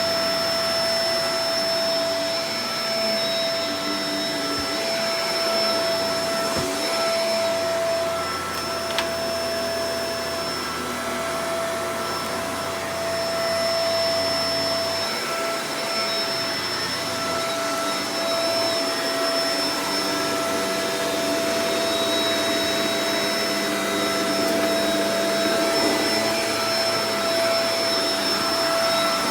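Shark Professional Powered Lift-Away DLX (NV586) upright vacuum cleaner running steadily, its motor giving a constant whine over the rush of air.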